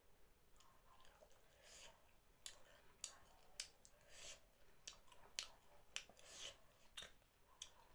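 Close-up eating sounds: chewing with sharp wet mouth clicks, starting about two and a half seconds in and coming roughly every half second to a second.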